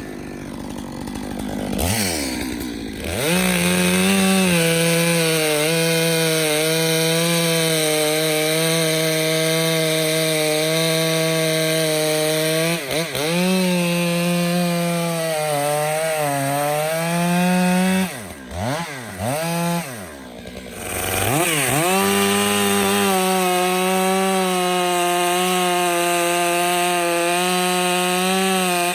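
Stihl MS661 chainsaw revving up about three seconds in and held at full throttle as it cuts through a log. The revs dip briefly around the middle, then fall away between cuts and rise again for another cut.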